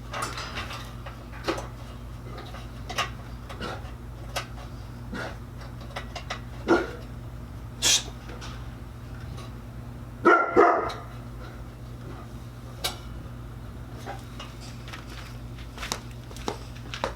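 A dog barking a few times, the loudest two barks in quick succession about two-thirds of the way in, over scattered sharp clicks and knocks and a steady low hum.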